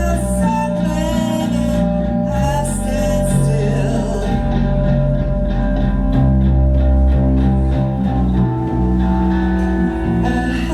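A live band playing a song: guitar and bass with a singer.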